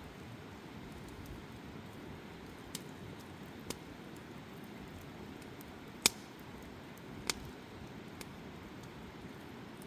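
Campfire burning: a steady low rustle of flames with a handful of sharp crackling pops from the wood, the loudest about six seconds in.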